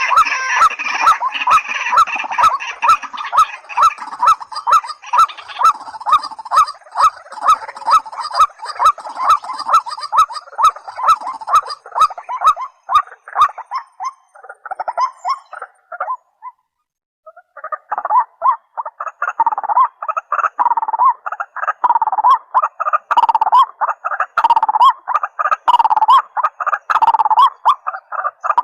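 Rails calling in a long, rhythmic series of repeated calls about two a second. The series breaks off for a second or two about two-thirds of the way through, then starts again. The calls are white-breasted waterhen and watercock calls.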